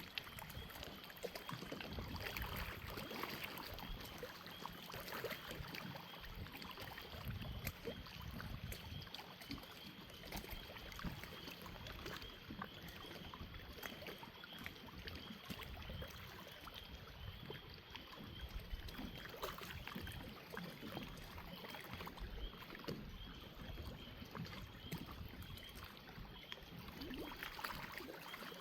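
Crickets chirping in a steady, rapidly pulsing high trill, over small waves lapping and rippling at the water's edge.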